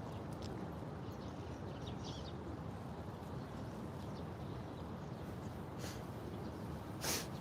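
Outdoor park ambience: a steady low background noise with a few faint bird chirps about two seconds in, and a short, louder noise near the end.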